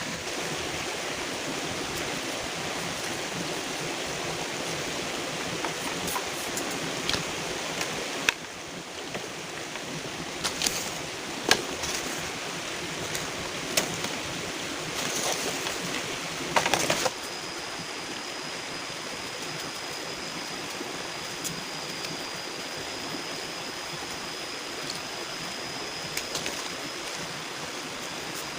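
A steady rush of water, with scattered sharp knocks and clicks over the first seventeen seconds or so. After that the rush evens out, and a faint, thin, high steady tone runs beneath it.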